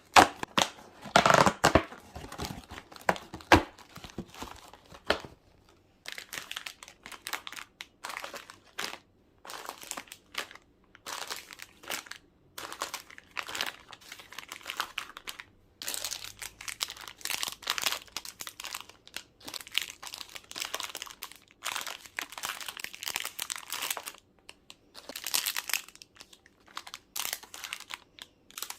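Plastic packaging crinkling and rustling in short, irregular bursts with brief pauses, as food packets are handled.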